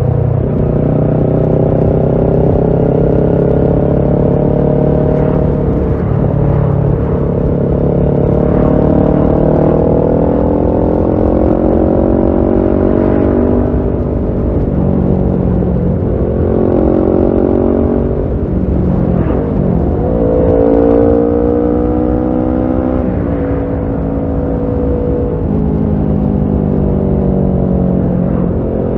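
Kawasaki Ninja 650 parallel-twin engine through a Shark aftermarket full exhaust, accelerating on the road. The pitch climbs and then drops at each gear change, several times over, with a brief easing off the throttle in the middle.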